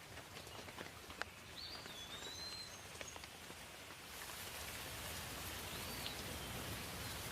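Rain falling, with separate drops ticking against a soft hiss, and a bird giving two short wavering whistled calls. About four seconds in the rain hiss becomes denser and steadier.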